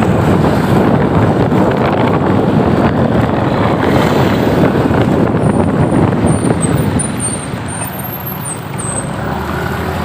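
Road traffic noise: vehicle engines running and rolling through congested traffic, with wind buffeting the microphone. The rumble eases a little about seven seconds in.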